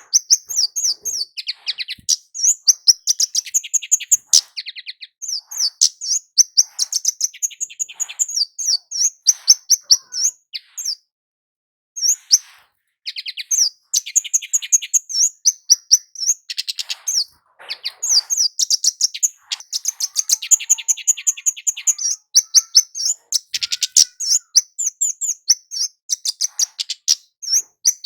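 Javan kemade (flowerpecker) in vigorous song: rapid runs of thin, high chips and twittering trills, with a short break near the middle.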